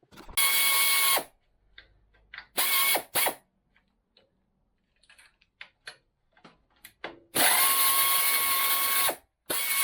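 Electric drill-driver run in four bursts, each with a steady motor whine: two short runs, then a long one of nearly two seconds, then a brief one at the end, driving or backing out fasteners on a Honda CT90 being stripped down. Faint clicks of handling fall between the runs.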